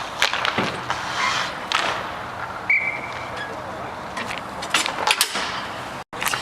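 Roller hockey play: sticks and puck clacking sharply several times, a quick cluster of hits about five seconds in, over the steady rumble of skate wheels on the rink surface, with a brief high squeal about three seconds in.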